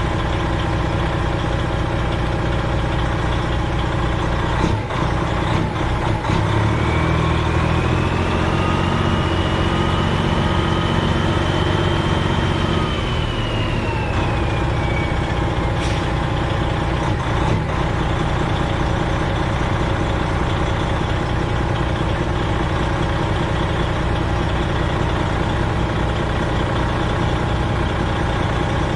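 Freightliner Classic XL semi-truck's diesel engine running steadily, heard from the cab. There are a few knocks about five seconds in, and a thin high whine rises and then falls over the following ten seconds.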